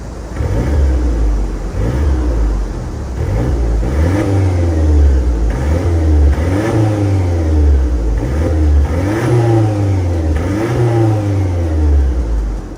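Mercedes-Benz E250 CGI's M271 turbocharged four-cylinder revved repeatedly through an aftermarket MS-R dual-valve catback exhaust with a straight-through downpipe: a deep exhaust note climbing and falling in about half a dozen quick revs.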